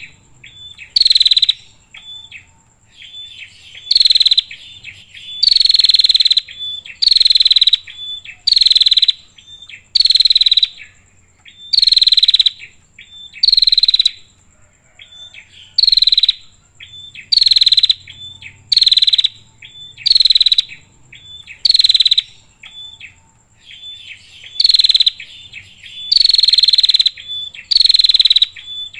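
Female prinia (prenjak) giving loud, harsh, rasping calls that slide downward, repeated about every one to two seconds, with softer short chips between them. A faint steady high-pitched tone runs underneath.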